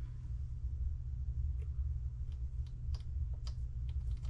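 Scattered light clicks of small parts being handled as a shock absorber is fitted back onto a radio-controlled drag car, over a steady low hum.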